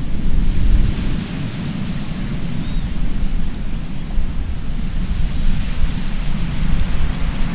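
Strong sea wind buffeting the microphone in a heavy, fluctuating rumble, over a steady hiss of surf on the beach.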